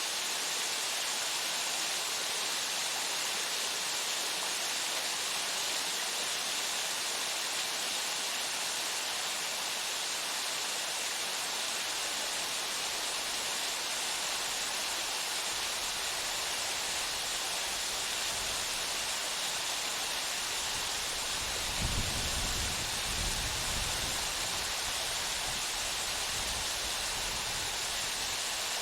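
Waterfall pouring steadily, a continuous hiss of falling water. A low rumble swells in about two thirds of the way through and fades again.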